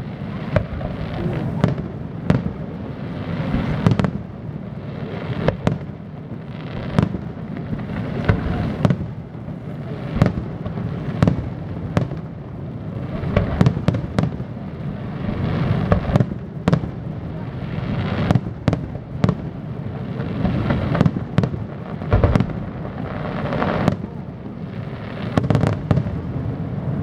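Aerial fireworks display: shell bursts going off in quick, uneven succession, about one to two bangs a second, over a steady background rumble.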